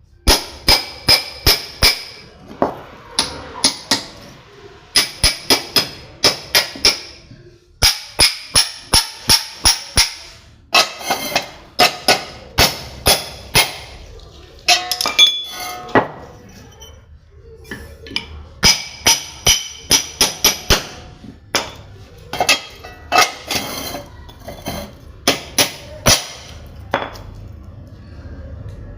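Repeated hammer blows on metal, each with a short bright ring. They come in quick runs of about two to three strikes a second, with brief pauses between runs.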